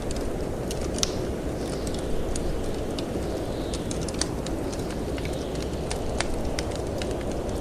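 Wood fire in a fireplace crackling, with irregular sharp pops scattered through, over a steady low rush of wind.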